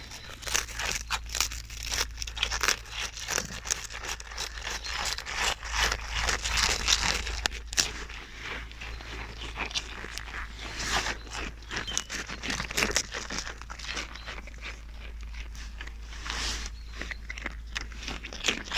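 Animals crunching and chewing a treat, a dense run of irregular crisp crunches and bites.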